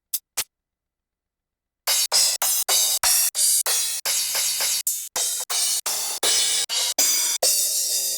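Electronic percussion built from Ableton Live's own devices, playing back. Two short clicks, then about two seconds in a run of bright, noisy hi-hat-like hits starts, each cut off sharply, about three a second.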